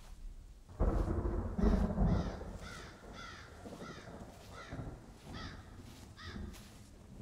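A low rumble of thunder about a second in, then crows cawing repeatedly, about two harsh caws a second.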